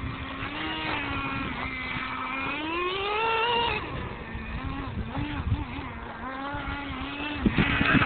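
Small nitro glow engine of an R/C monster truck buzzing. It revs up to a high pitch about three seconds in, falls back and wavers around a steady mid speed, then gets louder and rougher near the end.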